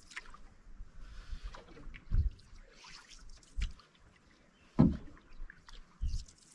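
Canoe being paddled: water trickling and dripping off the paddle, with a low thump about every second and a half, the loudest a little under five seconds in.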